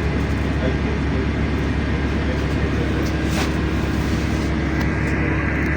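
Cabin noise of a LiAZ-5292.65 city bus under way: a steady engine drone and road rumble with a constant hum, and a brief faint hiss a little past halfway.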